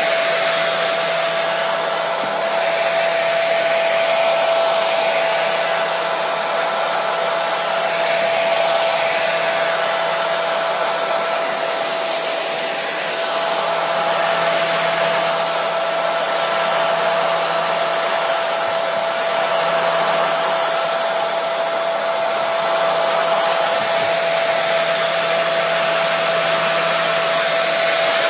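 Electric hair dryer running steadily: a constant rush of blown air with a steady motor whine.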